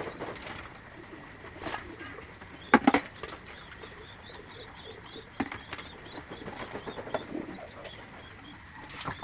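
Racing pigeons feeding: soft cooing, scattered sharp clicks of beaks pecking at feed, and a loud short clatter of several strikes about three seconds in.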